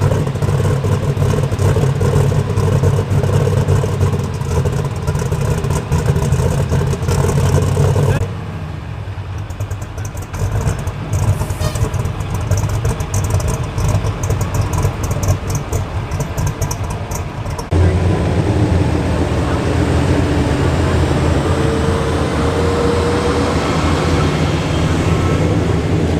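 Light super stock pulling tractor's engine running hard and steady under load during a pull. The sound changes abruptly twice, about 8 and 18 seconds in, with a quieter middle stretch.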